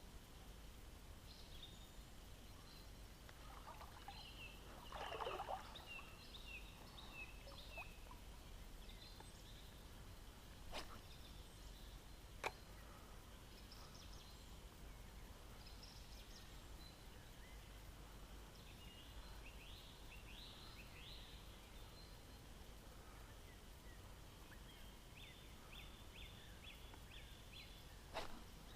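Faint songbird calls: several short series of quick, high chirping notes, over a quiet steady background, with a few sharp clicks.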